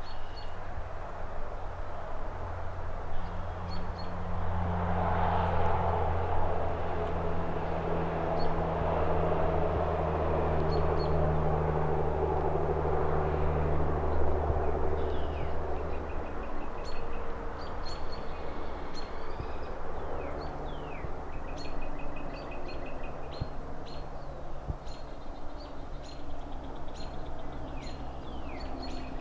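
Traffic rumble from the city below, with a vehicle passing by and fading away over the first half. Small birds chirp and trill, sparsely at first and then often in the second half.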